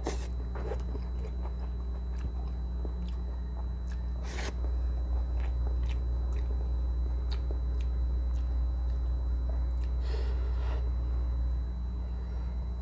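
Close-up chewing of vinegar-stewed milkfish and rice eaten by hand, with wet mouth clicks and smacks, a few of them sharper: one right at the start, one about four seconds in and a cluster near ten seconds. A steady low hum runs underneath.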